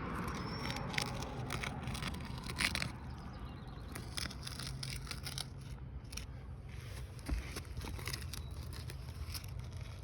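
Chalk scraping over the gritty granule surface of asphalt shingles in short, irregular strokes, marking fracture lines. A steady low rumble runs underneath.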